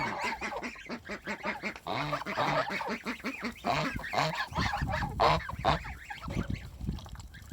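A flock of ducks calling over one another, with many short pitched calls overlapping continuously.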